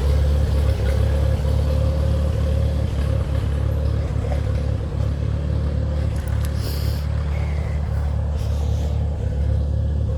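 Allis-Chalmers farm tractor engine idling steadily, left running to warm up after a cold-morning start.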